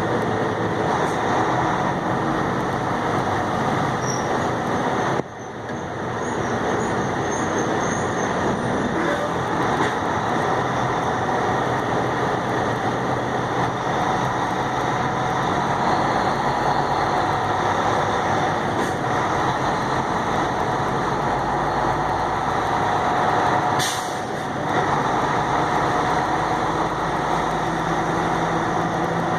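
Steady engine and road noise inside a moving truck's cab, with a short drop in level about five seconds in and a brief sharp sound near the end.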